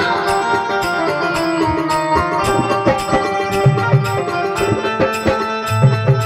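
Instrumental Indian devotional folk music: a dholak beats out a quick rhythm under a melody of held notes.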